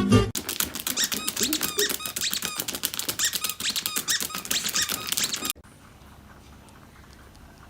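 Rapid high-pitched squeaks over a fast clatter of clicks, stopping abruptly about five and a half seconds in, then faint room tone.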